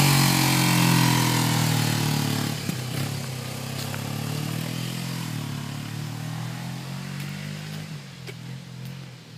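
2007 Kawasaki Ninja 250R's parallel-twin engine pulling away, its pitch rising and falling through the gears and growing steadily fainter as the motorcycle rides off.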